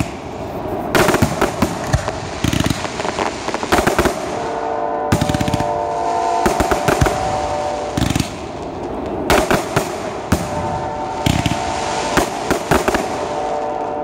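Fireworks display: shells launching and bursting overhead, with many sharp bangs and dense crackling. From about four to eight seconds in, and again later, a few steady held tones sound beneath the bangs.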